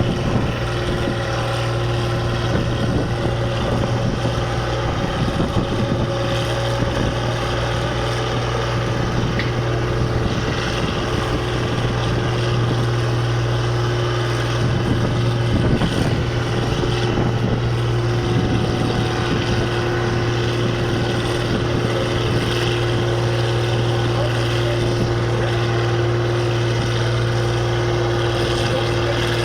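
Tractor engine running at a steady, unchanging speed, with a constant low drone.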